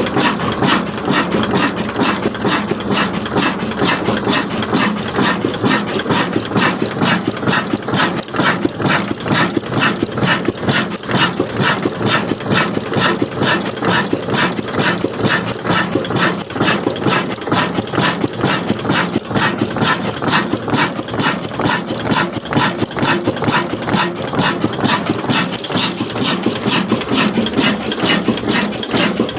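Old single-cylinder black diesel engine running steadily, its exhaust beating in a fast, even rhythm.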